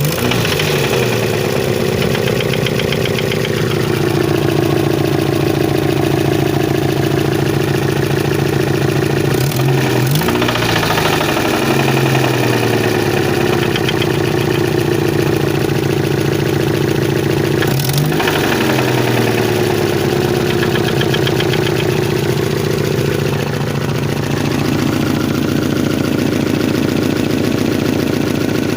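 1992 Chevrolet Chevette four-cylinder engine running at idle, briefly revved about three times, with an abnormal engine noise whose source the owner cannot locate.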